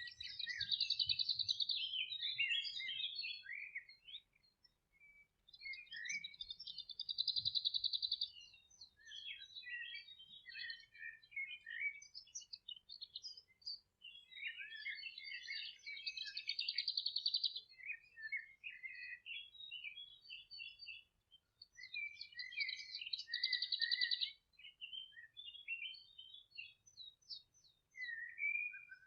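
Songbird singing in the open: four long phrases a few seconds each, every one opening with a fast trill and running on into quick varied notes, with short pauses between.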